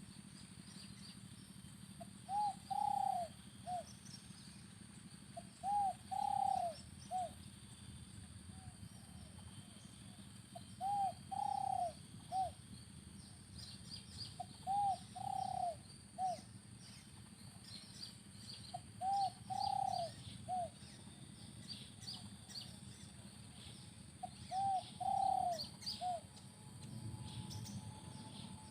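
Spotted dove cooing: a short phrase of three notes, short–long–short, repeated six times about every four seconds. Faint high chirps of small birds lie behind it.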